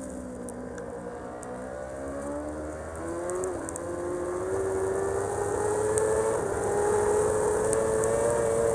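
Racing superbike engine heard from onboard: the revs fall for the first couple of seconds as the bike slows. About three seconds in, the pitch jumps up, then climbs steadily as the bike accelerates hard.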